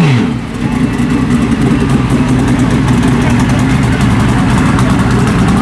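A turbocharged Pro Xtreme drag motorcycle's engine comes down from a rev at the very start and then idles steadily and loudly.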